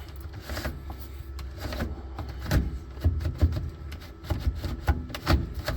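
Factory Ford BTR automatic shifter being worked by hand, giving a string of irregular clicks and knocks over a low rumble.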